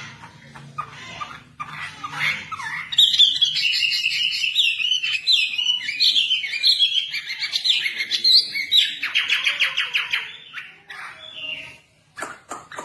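A wambi songbird singing with quick, varied chirping phrases that build a few seconds in. It then breaks into a fast, even trill before easing off near the end.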